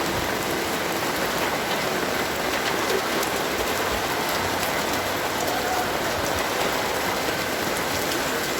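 Heavy rain falling, a steady dense hiss of drops with many small pattering ticks.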